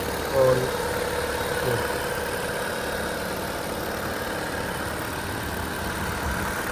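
An MG hybrid petrol car's engine idling steadily, with a steady hum.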